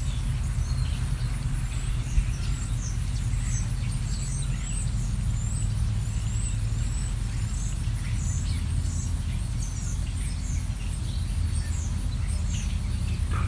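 Small songbirds chirping and twittering repeatedly in short high notes, over a steady low rumble.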